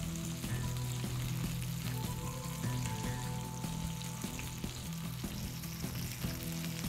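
Chicken wings deep-frying in hot oil: a steady sizzle with scattered crackles, under quiet background music.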